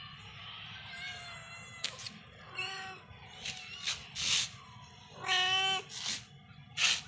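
A cat meowing: a short meow, then a longer drawn-out meow a few seconds later, with several short noisy bursts in between and after.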